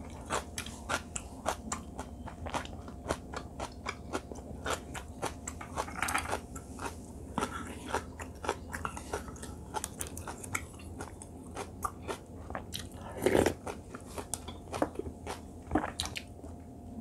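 Close-miked chewing and mouth sounds of a person eating: a steady run of small wet clicks and smacks, with a louder one about thirteen seconds in.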